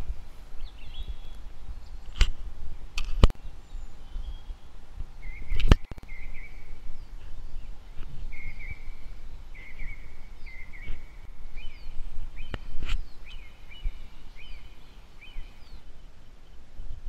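Small birds chirping in a forest, with short repeated chirps that come more often after the first few seconds, over a low rumble of wind. A few sharp clicks break in, the loudest about six seconds in.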